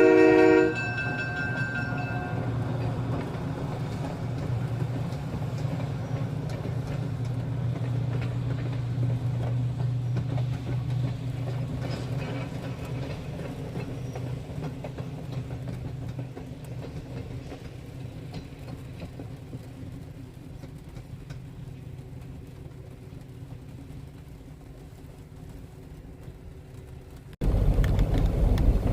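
A train horn sounds a multi-tone chord that stops about a second in, then the train rumbles steadily and slowly fades as it moves away. Near the end the sound cuts abruptly to a louder low rumble.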